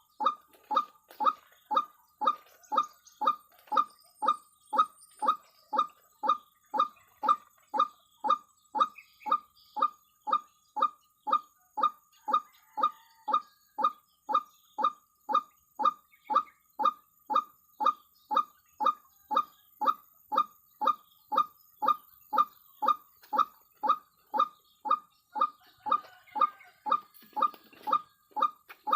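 White-breasted waterhen (ruak-ruak) call: a single short, nasal note repeated at an even pace of about two a second, at a steady level throughout.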